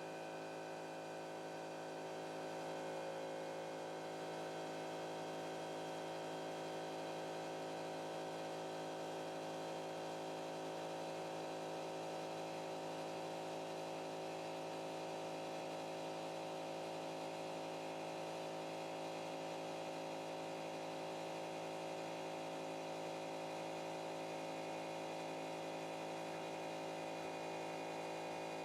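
CNC pen-plotting drawing machine's stepper motors running as it draws, a steady multi-tone whine and hum that gets slightly louder about two seconds in.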